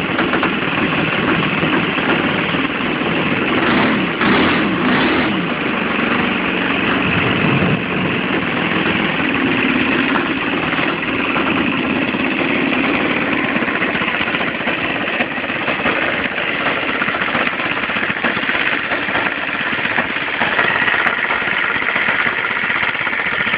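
O.S. 120 FS four-stroke glow engine of a model aircraft running at a fairly steady speed on an engine test, with a brief unsteady stretch about four to five seconds in.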